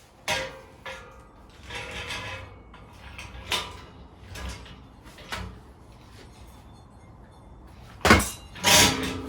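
Steel being handled: a string of knocks and clanks, some ringing briefly. The two loudest come close together about eight seconds in.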